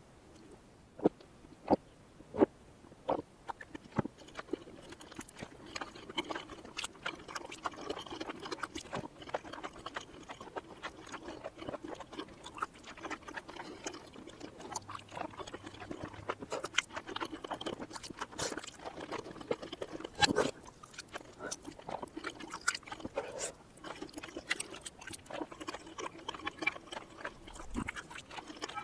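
Close-miked chewing and mouth sounds from eating chewy cheesy rice cakes, played in reverse. Many wet clicks and smacks run over a steady sticky chewing sound, with a few sharp clicks early and a loud one about two-thirds of the way through.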